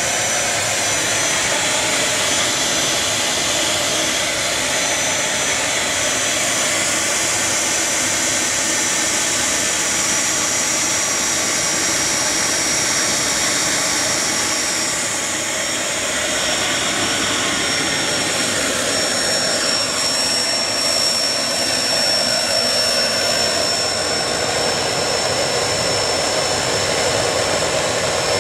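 Small homemade turbojet engine built from old truck parts, running steadily with a loud roar and a high turbine whine. The whine drifts slightly lower over the first half and then holds.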